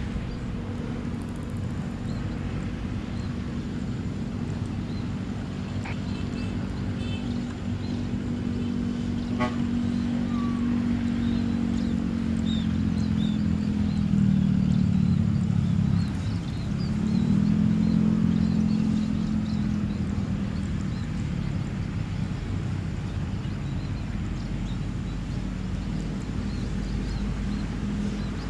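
A steady low engine drone with a dip in pitch about halfway through, after which it picks up again, over faint high chirps.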